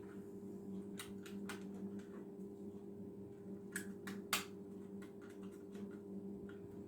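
Small plastic parts of a Braun Silk Epil epilator clicking and knocking as it is reassembled by hand: a few scattered light clicks, the loudest about four seconds in, over a faint steady hum.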